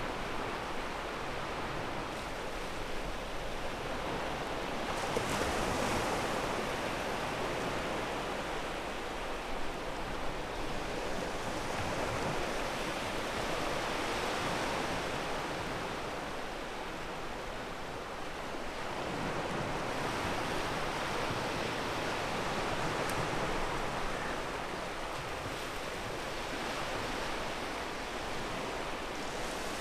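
Sea waves breaking and washing over a pebble beach, a continuous surf noise that swells and eases every several seconds as each wave comes in and draws back.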